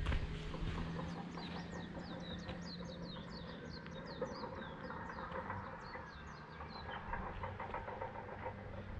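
A small songbird singing a long, rapid run of short, high, falling notes, about four a second, for several seconds before stopping.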